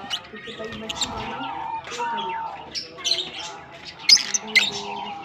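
Lovebirds chirping and squawking in short, shrill calls, the loudest cluster a little past four seconds in.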